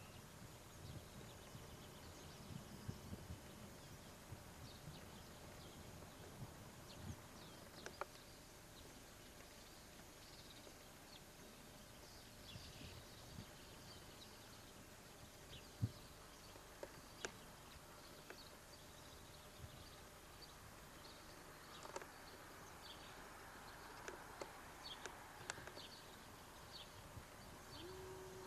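Quiet outdoor ambience of faint, scattered bird chirps, with a few soft low thumps and sharp clicks.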